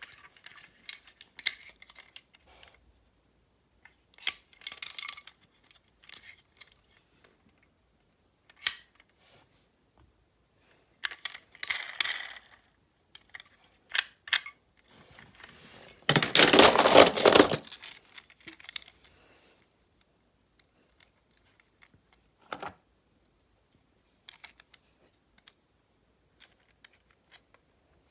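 Scattered clicks, taps and short rattles of small hard objects being handled, with a louder scraping, rustling noise lasting about a second and a half partway through.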